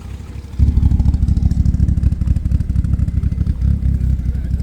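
A vehicle engine running close by with a rapid, low exhaust pulse. It comes in loudly about half a second in and then runs on steadily.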